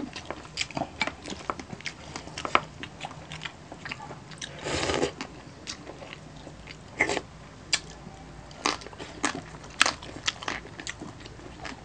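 Close-up crunching and chewing of crispy roast pork belly skin (lechon belly), with many sharp crackles as the brittle skin breaks and a half-second burst of crackling about five seconds in.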